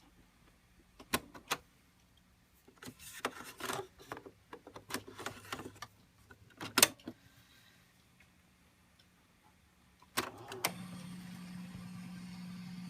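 Clicks and rustling from handling the Panasonic SG-J800 boombox's mini record player between records, with a sharp click near the middle. About ten seconds in, a steady hum with a faint hiss comes in and holds.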